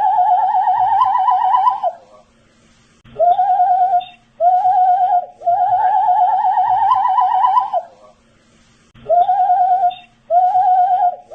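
A man whistling a short looped phrase: two brief whistled notes, then a longer warbling note that rises slightly toward its end, with about a second's pause before the phrase repeats about every six seconds.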